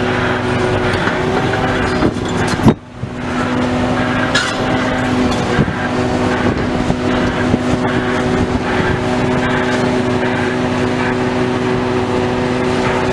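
Engine of heavy demolition machinery running steadily at a constant pitch, with one sharp loud knock a little under three seconds in and a couple of lighter knocks after.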